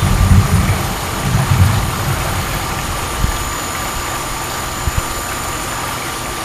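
Thunder rumbling, deep and uneven, in a few rolling pulses over the first two seconds before it dies away. A steady hiss with a faint thin steady tone runs underneath.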